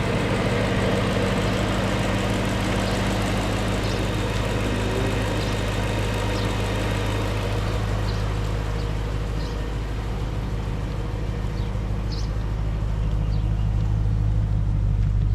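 2009 BMW M3's 4.0-litre V8 idling steadily, warmed up to operating temperature.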